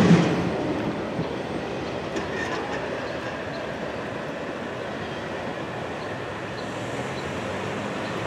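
Tail end of a double-stack intermodal freight train rolling away over the rails, with a loud clatter right at the start, then a steady rumble of wheels on track.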